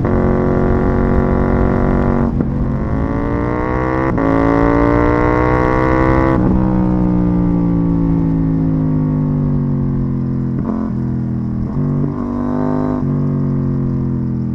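KTM 790 Duke's parallel-twin engine through an IXRace MK2 exhaust, heard on board at speed. It holds a steady note, then pulls hard through two upshifts about two and four seconds in, the pitch climbing in each gear. It then falls away steadily on the overrun, with a few short breaks in the note near the end.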